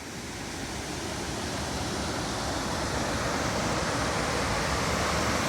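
Steady rush of water from a waterfall, fading in over the first couple of seconds and then holding even.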